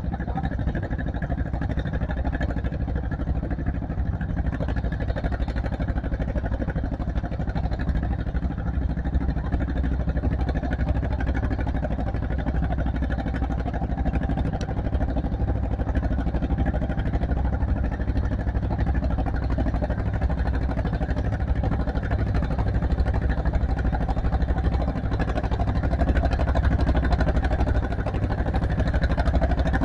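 Tractor engine running steadily, getting a little louder near the end.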